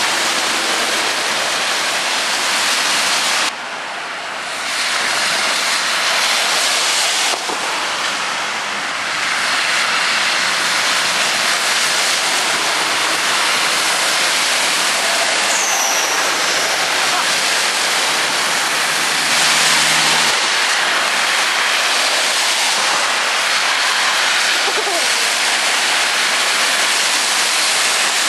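Vehicles driving through deep standing water on a flooded road in heavy rain: a steady rush of tyre spray and splashing, easing briefly about four seconds in.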